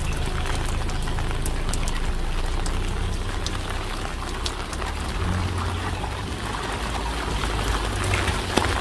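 Steady rain falling, with scattered sharp drip ticks over an even hiss and a low rumble underneath.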